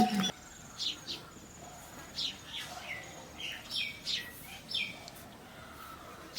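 Birds chirping: a string of short calls, each falling in pitch, a few each second. A sharp knock at the very start is the loudest sound.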